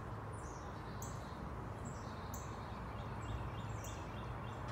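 Small birds chirping: short, high chirps repeat throughout, with a quick run of about five lower notes in the last second and a half, over a steady low hum.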